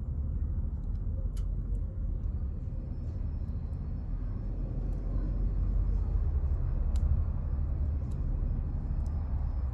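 Wood campfire burning, giving a few sharp crackles and pops from the logs over a steady low rumble. A faint thin high insect tone sets in a few seconds in.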